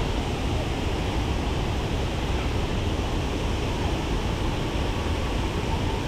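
Steady rushing of a waterfall, an even noise without breaks.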